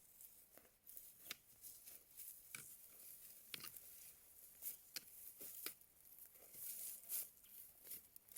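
Faint, irregular small clicks and light rustling, like something being handled close by.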